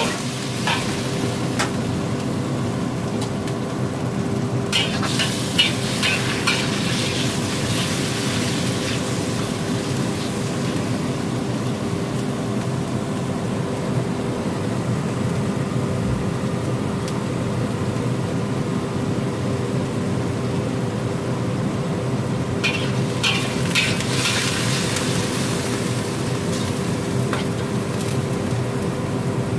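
Chicken breast strips sizzling in an oiled wok over a steady hum, with a metal spatula scraping and clacking against the wok in two short spells, about five seconds in and again about twenty-three seconds in.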